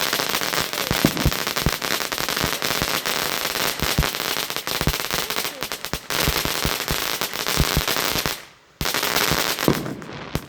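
Consumer fireworks going off as a dense, rapid stream of crackles and small pops. The stream stops briefly just before the end, then a few more pops follow.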